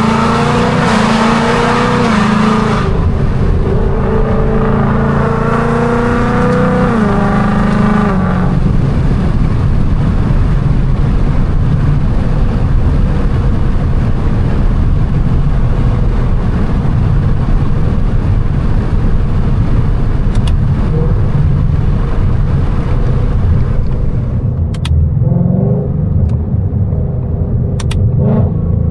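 Straight-piped, catless 2019 Mustang GT's 5.0-litre V8 running hard under throttle. The pitch wavers up and down for about the first eight seconds, then the note turns rougher and noisier. It eases off near the end, with a few sharp clicks.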